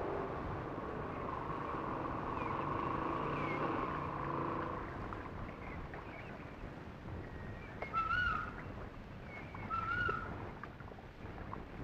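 A bird calling, a short pitched call repeated about every two seconds in the second half, over a steady outdoor hiss.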